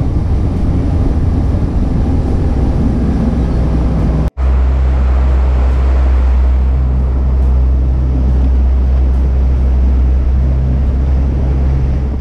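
Boat's outboard motor running steadily under way, a low hum under the rush of wind and water. It briefly cuts out about four seconds in.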